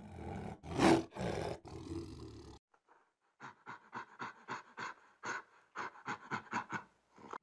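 Tiger growling and roaring, loudest about a second in, then a brief pause and a rapid series of short, sharp gorilla sounds, about five a second.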